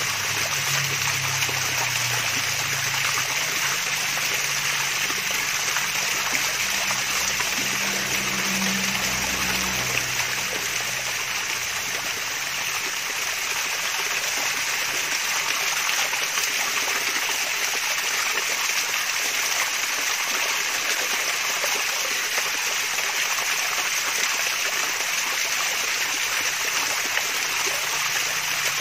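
Water from a small artificial waterfall trickling and splashing steadily, an even hiss of running water.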